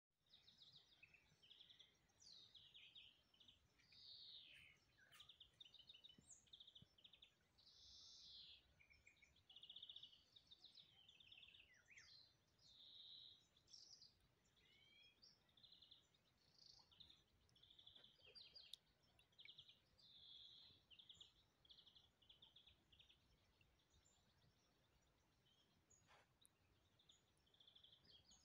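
Songbirds singing and calling faintly, a steady overlapping run of short chirps, whistled notes and rapid trills.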